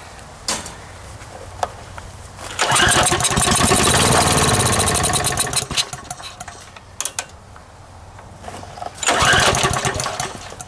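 Briggs & Stratton 6.5 Intek small engine, set on choke, catching and running for about three seconds before dying away; near the end it catches again for a second or so. It only fires on starting fluid; its own gas is not getting through.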